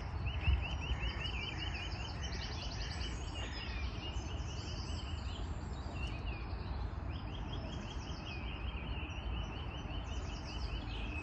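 Several songbirds singing: quick runs of repeated chirps and higher trills, over a steady low rumble.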